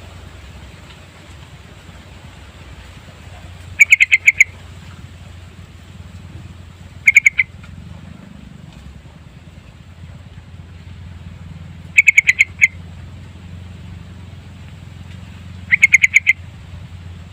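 Yellow-vented bulbul singing: four short bursts of quick, bubbling notes, each under a second long, spaced a few seconds apart.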